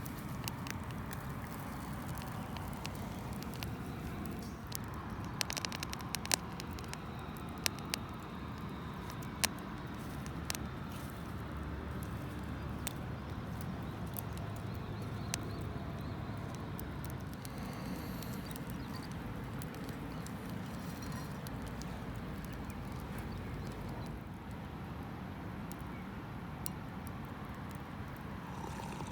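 Wood campfire burning: a steady low rush with scattered sharp pops and crackles, clustered about five to ten seconds in.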